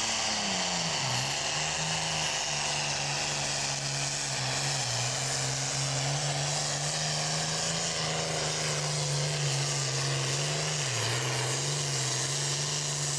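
Single-turbocharged John Deere super stock pulling tractor running hard at high revs under load, with a loud, high turbo whine over the engine. The engine pitch sags briefly about a second in and again near the end, and the sound cuts off sharply at the end.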